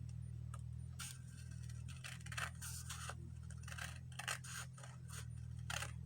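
Scissors cutting through cardstock: a series of short, uneven snipping strokes along a line, over a steady low hum.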